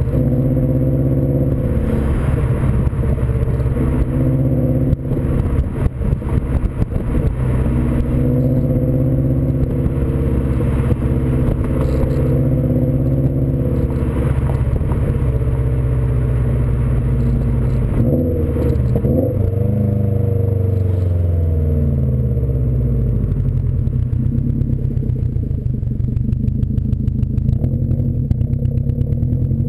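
Exhaust note of a 2015 Subaru WRX STI's turbocharged 2.5-litre flat-four through a Nameless aftermarket exhaust. The engine pitch rises and falls repeatedly as the revs change, with a clear drop in pitch a little after halfway.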